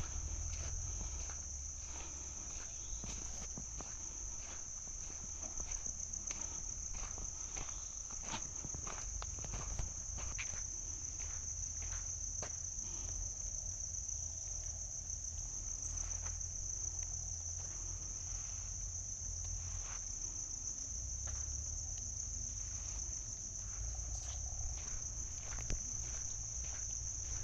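A steady, high-pitched chorus of insects, with irregular footsteps rustling through forest undergrowth.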